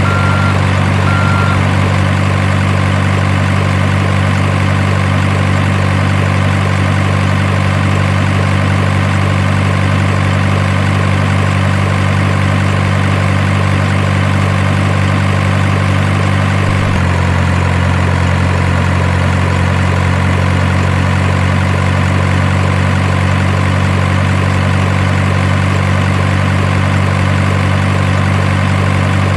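Steady, low truck engine idling sound, with an abrupt shift in its tone about seventeen seconds in.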